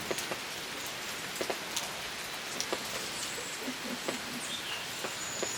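Steady rain falling, with scattered drops tapping on surfaces close by. A thin, high whistle comes in near the end.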